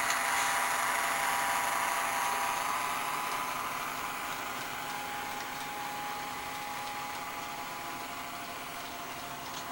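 Simulated diesel locomotive engine sound from a Digitrax SDH164D sound decoder, played through a small speaker in a model SD-35 locomotive as it runs, with a few steady tones over a hum. It gradually fades.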